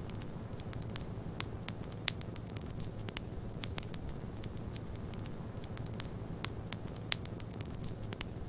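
Wood fire crackling in a fireplace: a dense scatter of small crackles, with a few sharper pops. Beneath them runs a steady low rumble.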